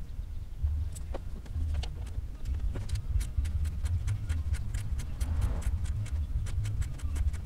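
Ratchet wrench clicking in quick runs while bumper bolts are undone, the clicks thickening from about three seconds in, over a fluctuating low rumble.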